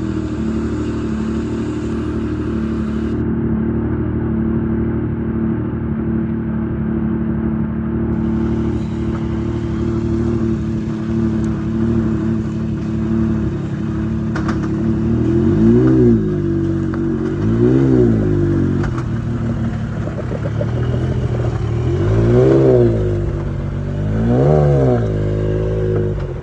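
A side-by-side UTV engine running steadily, then, from about halfway in, rising and falling in pitch about every two seconds as it is revved or driven harder and eased off, five or six times.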